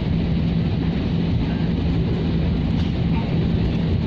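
Steady low drone of an airliner cabin with the jet engines running on the ground before takeoff, a constant low hum under the noise.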